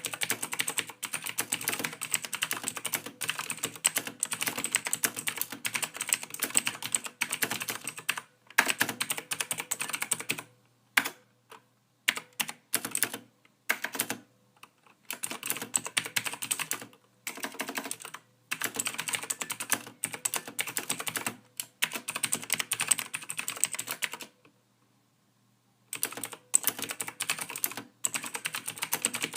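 Typing on a computer keyboard: a fast, dense run of key clicks broken by a few short pauses, the longest a silence of about two seconds some five seconds before the end.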